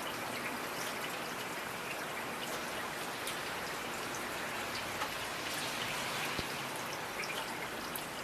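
Steady rain falling, with individual raindrops ticking sharply here and there over the even hiss.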